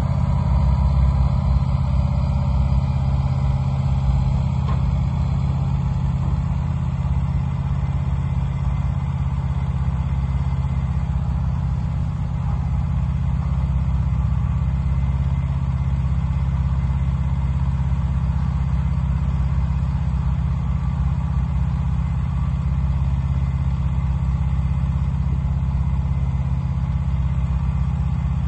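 Wood-Mizer LT15 portable band sawmill running steadily, its engine holding an even, unchanging note.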